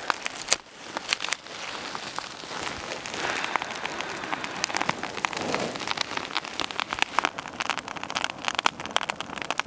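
Kindling fire of dry spruce twigs and birch bark crackling under the logs of a three-log nodya campfire as it catches, with many rapid sharp pops over a steady hiss.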